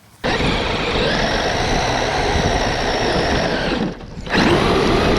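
Electric RC car driven hard, its motor whining steadily over the rattle of the chassis and tyres. The throttle is cut briefly about four seconds in, then opened again.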